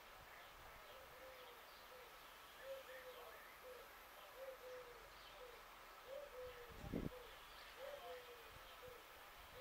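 A bird repeating short, soft low notes over and over, with faint chirps of small birds behind it. One dull thump about seven seconds in.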